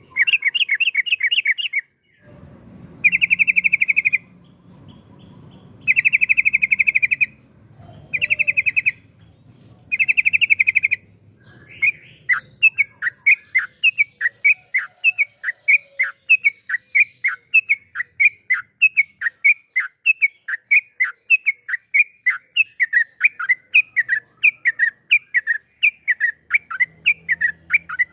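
Yellow-vented bulbul song: several rapid trilling bursts about a second long, then, from about twelve seconds in, a long run of quick downward-slurred notes, two or three a second.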